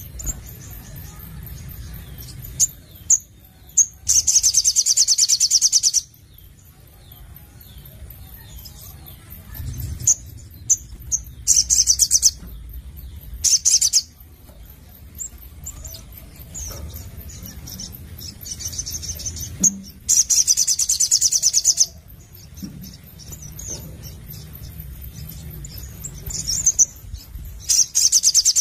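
Sogon (sogok ontong) bird singing vigorously: loud, rapid high trills lasting one to two seconds, repeated about five times, with short high chirps in between.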